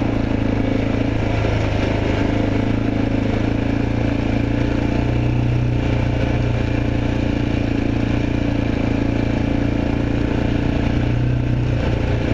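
Honda XR650L single-cylinder four-stroke dirt bike engine running at a fairly steady pace while being ridden, its pitch dipping slightly now and then, with a steady rushing noise over it.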